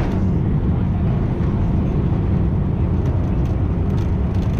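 Steady, loud low rumble of cabin noise inside a Boeing 787-9 airliner, with a few faint clicks near the end.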